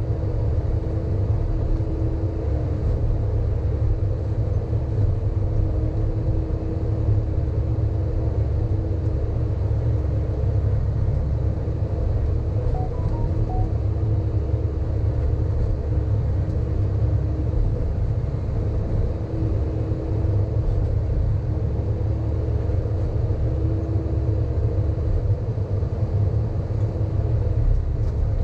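Sany excavator's diesel engine running steadily, a low, even drone with a constant higher hum over it.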